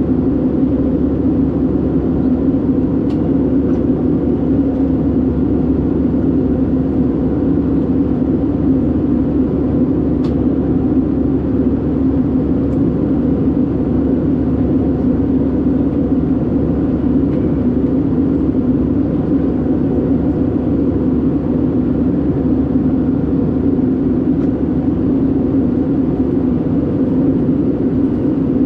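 Steady drone of an Airbus A319-112's engines and airflow heard inside the passenger cabin, even and unchanging, with a few faint clicks.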